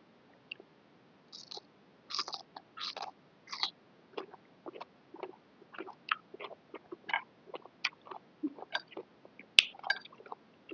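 Close-up eating noises of a person eating boat noodles: wet chewing with many small mouth clicks, and a few longer slurping sounds about one and a half to four seconds in. A sharp click near the end is the loudest sound.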